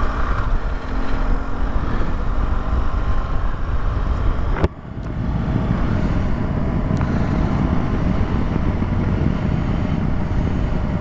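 BMW R1200GS boxer-twin engine running while riding, with wind and road noise on the microphone. A sharp click about halfway through, after which the engine sound is fuller.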